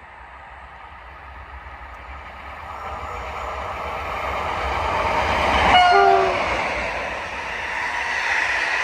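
A train approaching and passing, its noise growing steadily louder. About six seconds in it gives a short horn blast whose pitch drops slightly as it goes by.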